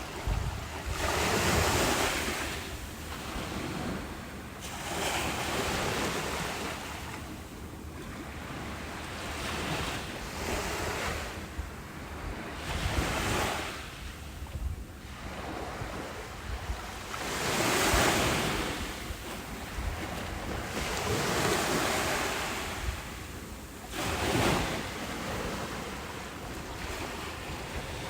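Ocean waves breaking and washing up on a beach, the surf rising and falling in a new surge every few seconds, the loudest two about two-thirds of the way in and near the end.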